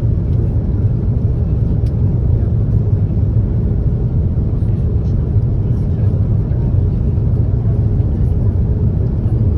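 Steady low rumble of an Airbus A330-300 cabin in flight on approach: engine and airflow noise heard from inside the cabin.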